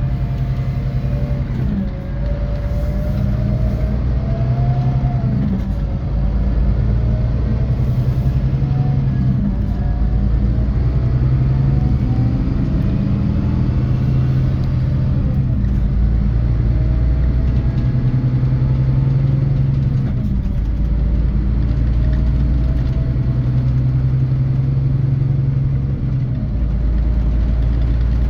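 Scania K450 coach's 13-litre straight-six diesel pulling under load, its pitch climbing for several seconds and then dropping back at each gear change, about five times, over a steady low drone of engine and road noise.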